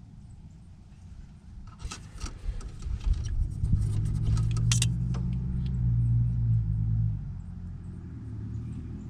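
Clattering and sharp clicks of metal parts being handled, then a motor runs steadily with a low hum for about three and a half seconds and stops.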